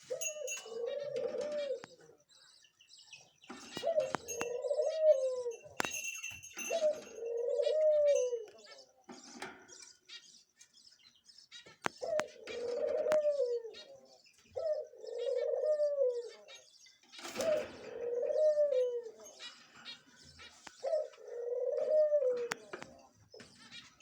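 A bird's low cooing calls, each about a second long with a rise and fall in pitch, repeated every few seconds with a pause near the middle. Scattered higher chirps and light clicks run between the calls.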